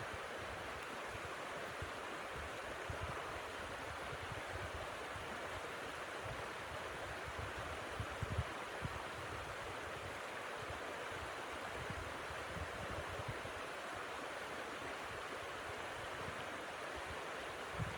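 Steady rushing of blizzard wind, with occasional low buffets on the microphone, the strongest about eight seconds in.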